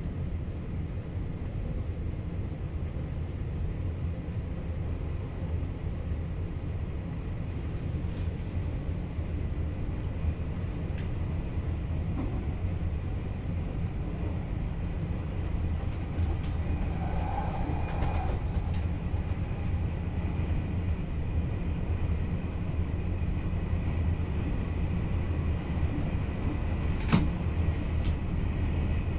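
Cab of a VIRM double-deck electric train running on the line: a steady low rumble of wheels on rail that grows slightly louder, with a few short clicks, the sharpest one near the end.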